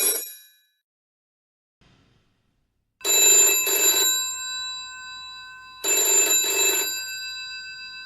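Telephone's mechanical bell ringing in a slow cadence: two rings about a second long, each followed by bell tones that hang on and fade. The second ring's fade is cut off abruptly.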